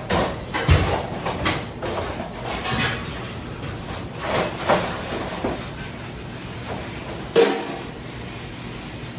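Irregular clattering and knocks over a steady hiss, with a sharp knock about seven and a half seconds in.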